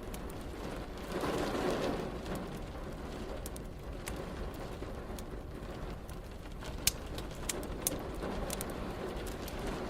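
Fireplace crackling, with scattered sharp pops, over a steady rain-and-rumble background; a brief low swell comes about a second in.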